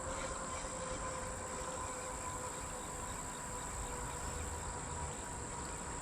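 Insects calling steadily in a high, thin, unbroken tone over a faint outdoor hiss.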